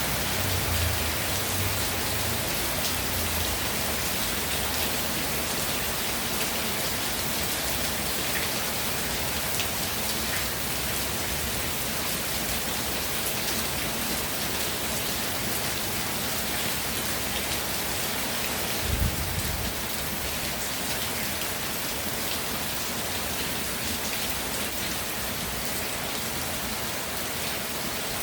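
Steady rain falling and pattering on surfaces, an even hiss throughout. A brief low thump about two-thirds of the way through stands out above it.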